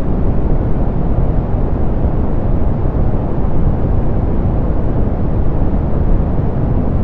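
Steady synthetic pink noise, softened so that it is deep and rumbling: an even hiss strongest in the bass and falling off toward the treble, with nothing changing over time.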